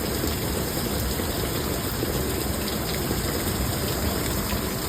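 Heavy thunderstorm rain pouring down in a steady, even rush of noise.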